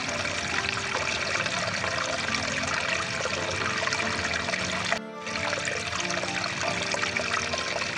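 Rushing water of a stream, a steady full rush, with soft music held over it. The water sound dips briefly about five seconds in.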